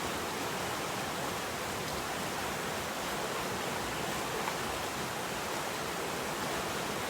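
River water rushing and splashing over rocks, a steady even roar of flowing water.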